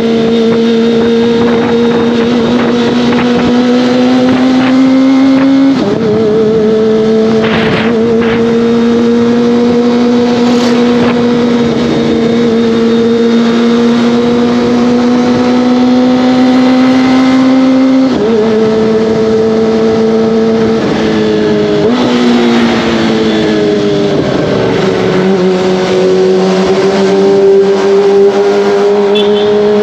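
Kawasaki ZX-25R's 250 cc inline-four engine and exhaust under way, the engine pitch climbing slowly and dropping sharply at gear changes about three times. About four-fifths of the way in, the revs fall away in a longer glide before settling again.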